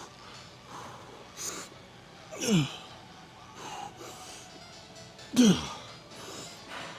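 A man grunting with effort through hard dumbbell reps: two strained grunts, about two and a half and five and a half seconds in, each falling in pitch, with sharp breaths in between.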